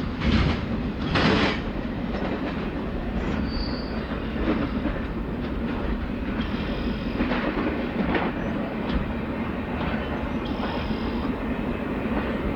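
Intermodal freight train rolling past: a steady rumble of wheels on rail, with rhythmic clicks over the rail joints and a few short, high wheel squeals.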